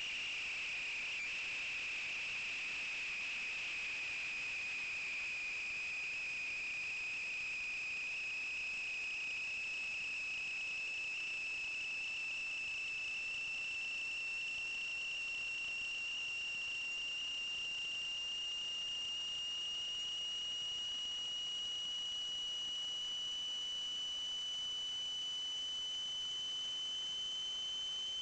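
Steady high-pitched electronic whine with a fainter higher overtone, its pitch creeping slowly upward.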